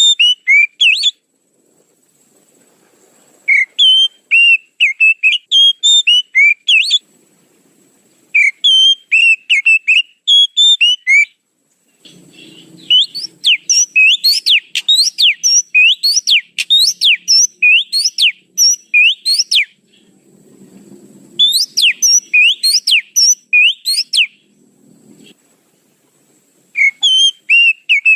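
Oriental magpie-robin (kacer) lure song: bursts of fast whistled phrases broken by short pauses, with a long middle run of rapid, steeply rising and falling notes.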